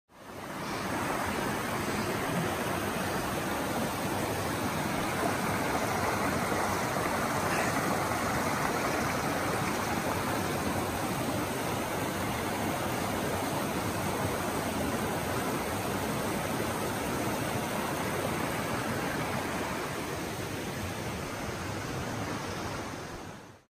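Rushing river water: a steady, even rush of moving water that starts abruptly and cuts off suddenly near the end.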